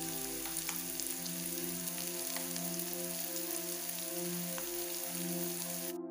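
Onions and green capsicum sizzling as they fry in oil in a non-stick kadai, with scattered small crackles; the sizzle cuts off suddenly near the end. Soft background music with sustained tones plays underneath.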